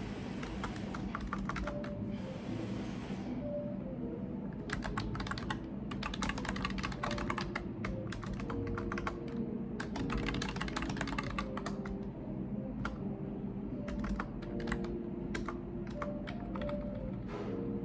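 Typing on a computer keyboard in bursts of rapid key clicks, broken by short pauses.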